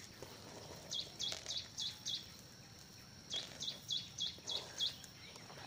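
A bird calling in two runs of quick, high chirps, five or six evenly spaced notes each at about three a second, the first about a second in and the second about three seconds in, over a faint steady high tone.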